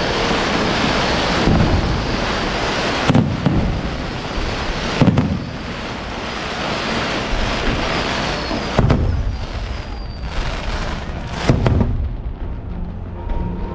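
Aerial fireworks bursting overhead: about six sharp booms a second or more apart, each with a brief rumbling tail, over a continuous crackling hiss of smaller shells and sparks.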